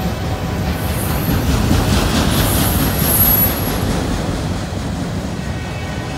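Autorack freight cars rolling past close by: a steady rumble of steel wheels on rail, with high-pitched wheel squeal about a second in and again around three seconds in.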